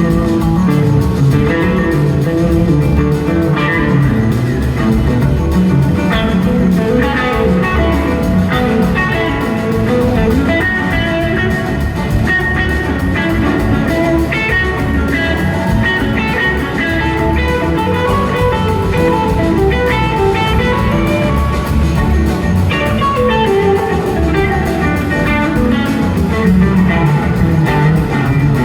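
Live blues-rock band playing an instrumental passage: electric guitar carrying the melody, with gliding notes, over drums and bass.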